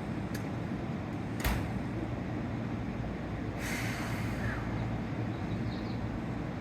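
Seibu 30000 series electric train standing at the platform before departure, over a steady low rumble. A sharp knock comes about a second and a half in, then a short hiss of air about two seconds later.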